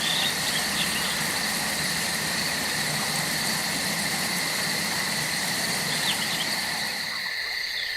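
Steady, shrill drone of rainforest insects such as cicadas, holding two constant high pitches, with a few faint chirps. Under it a low rumble fades out near the end.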